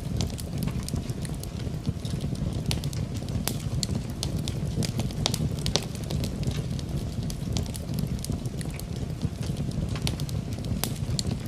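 Wood fire crackling in a fireplace: irregular sharp pops several times a second over a steady low rumble, with a steady rain hiss mixed in.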